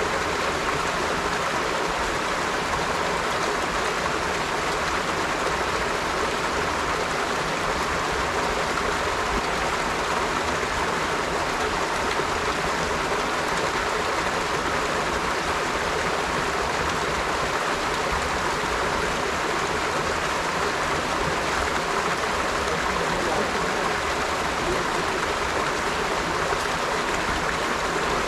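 River water flowing: a steady, continuous rush of running water.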